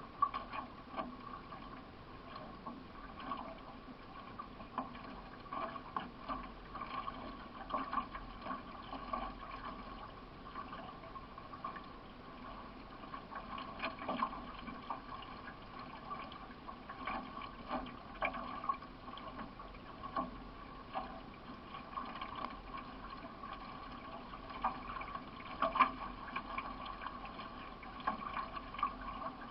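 Paddle strokes from a solo racing canoe under way: water splashing and running along the hull, with short splashes about once a second.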